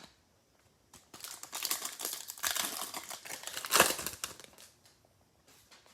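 Plastic wrapper of a trading-card pack crinkling as it is torn open and handled, in a run of crackles that peaks about four seconds in and dies away.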